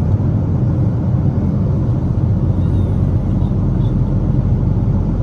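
Steady low rumble of a Boeing 777's engines and airflow heard inside the passenger cabin, even throughout with no distinct events.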